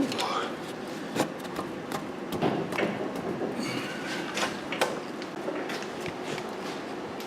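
Scattered metallic clinks, knocks and a brief squeak as brake and hub parts and hand tools are handled, over a faint steady hum.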